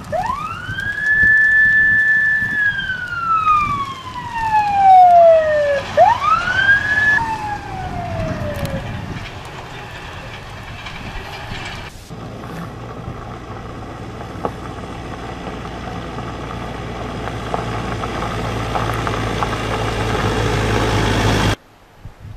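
Emergency vehicle siren wailing: it rises, holds high, slides slowly down, then rises and falls once more. After that a steady low engine rumble builds and cuts off abruptly near the end.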